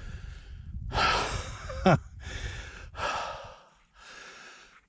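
A man breathing hard, heavy open-mouthed breaths about once a second as he walks after a missed shot, with a short falling whine-like sound about two seconds in.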